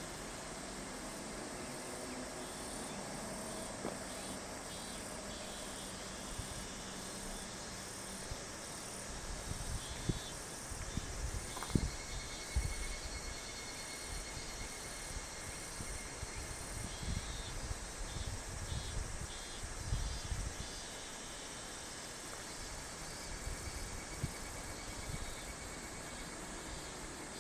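A chorus of summer insects calling, with a pulsing, repeated call and a steady high trill through the middle. Over it, from about nine seconds in until about twenty-one, comes a low, uneven rumble with a few sharper peaks.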